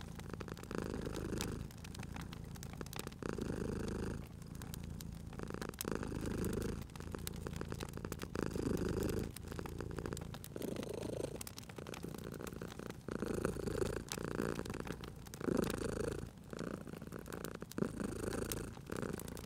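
Domestic cat purring close up, the purr swelling and fading in a steady rhythm with each breath in and out. Wood fire crackling with sharp little pops throughout.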